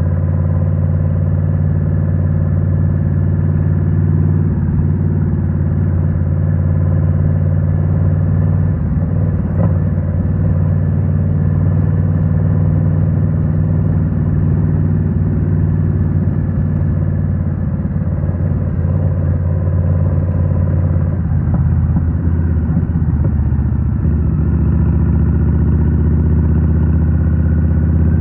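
2023 Indian Scout Rogue's 69 cu-in liquid-cooled V-twin running through a Rinehart 3.5-inch slip-on exhaust, holding a steady note while cruising. About three quarters of the way through, the engine note dips and changes, then settles again.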